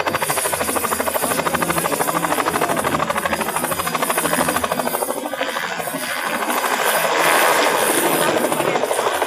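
Helicopter rotor beating fast and evenly. About two-thirds of the way through, a louder rushing noise joins it.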